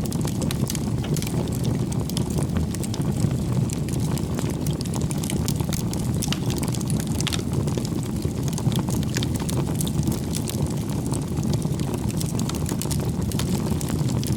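Wood campfire burning: a steady low rush of flame with frequent sharp crackles and pops from the burning firewood.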